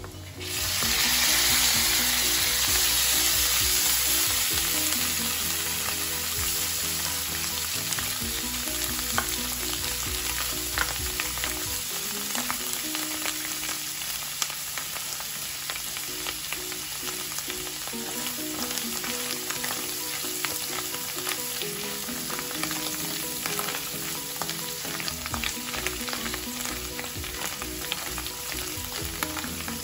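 Sliced mushrooms hitting a hot frying pan of fat: a loud burst of sizzling right at the start that eases over the next few seconds into steady frying, with the spatula clicking and scraping in the pan as they are stirred.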